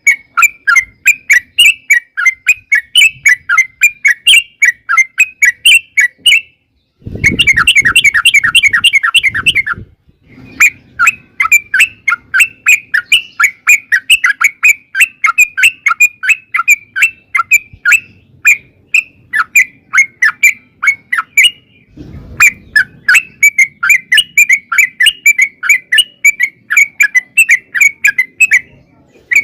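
Yellow-vented bulbul (trucukan) singing a long, unbroken run of loud chattering notes, two or three a second. The run is briefly interrupted about a quarter of the way in, then turns into a faster, denser burst of notes for a few seconds. It breaks again about three-quarters of the way through before carrying on.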